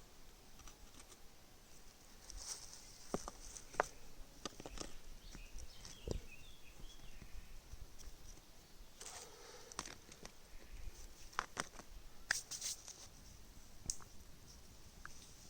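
Irregular small handling noises: scattered light clicks and knocks with short rustles, thickest in the second half.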